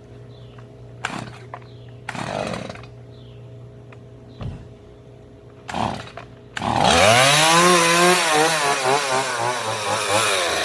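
A Stihl MS 170 two-stroke chainsaw starts about two-thirds of the way in, its pitch climbing quickly, then runs loud with the revs rising and falling. Before it, a few short scuffs and knocks over a low steady hum.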